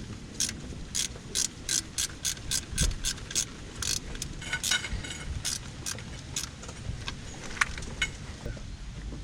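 Ratchet wrench clicking in a run of quick strokes, about three clicks a second, stopping about two-thirds of the way through, followed by a few scattered knocks.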